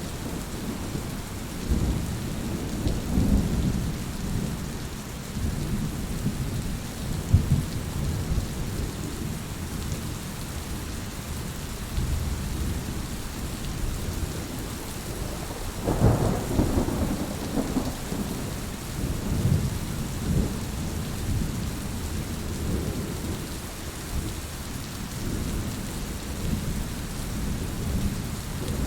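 Heavy rain falling steadily, with low thunder rumbling on and off and one louder peal of thunder about halfway through.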